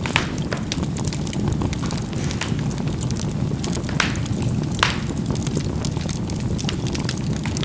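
Charcoal burning in a fireplace: a steady low rumble of the fire with scattered crackles and a few louder pops as the coals burst.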